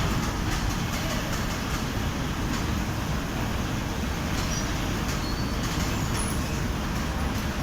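Automatic fabric spreading machine running with a steady mechanical drone, mostly low-pitched, without a distinct beat or change.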